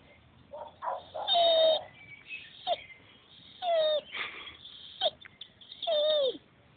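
Petit Basset Griffon Vendéen crying over a dead bird: a series of high whines that fall in pitch at the end, about five in all, the loudest about a second and a half in and a long falling one near the end.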